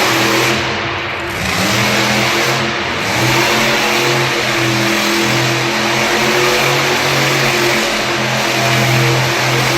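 A vehicle engine running loud and steady at a fairly even pitch, over a constant hiss of background noise.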